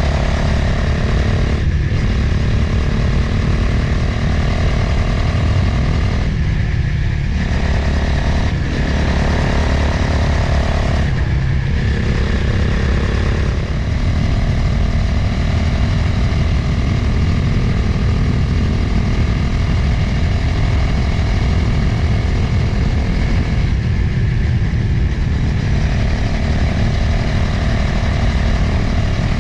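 Motorcycle engine running while riding, with heavy wind rumble on the microphone. The engine note drops away briefly a few times and then picks up again.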